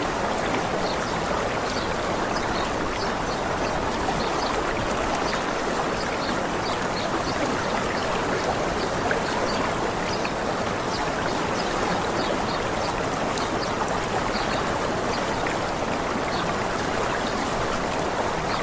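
Waterfall rushing steadily, with scattered faint, short, high bird chirps.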